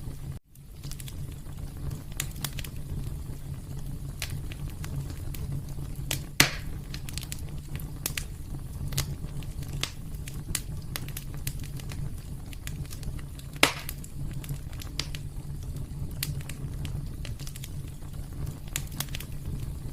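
Wood fire crackling over a steady low rumble, with frequent small snaps and two louder pops about a third and two-thirds of the way through. The sound cuts out for an instant near the start.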